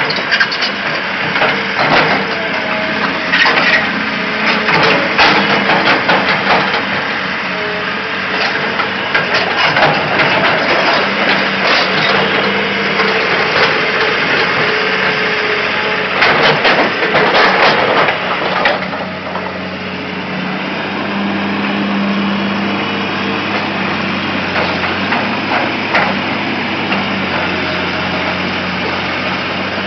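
Caterpillar excavator working, its engine running steadily under many sharp knocks and cracks for about the first two-thirds, after which the engine carries on more evenly with only the odd knock.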